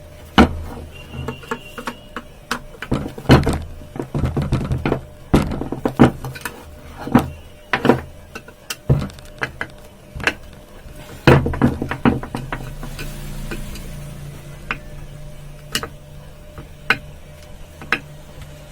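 Irregular sharp knocks and clicks of a tool against the metal housing of a ceiling fan motor as its screws are tightened after a bearing change. A low steady hum comes in about twelve seconds in.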